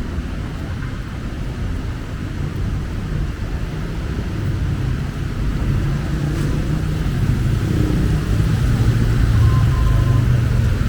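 City street traffic: a motor vehicle's engine rumbling steadily, growing louder through the second half as it comes closer.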